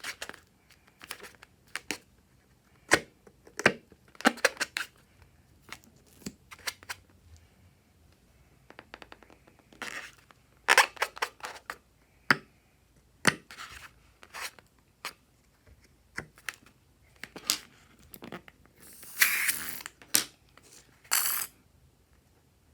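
Hands working with slime-making materials give scattered taps, clicks and scrapes, with short crinkly tearing noises. The longest and loudest rustle comes about three seconds before the end.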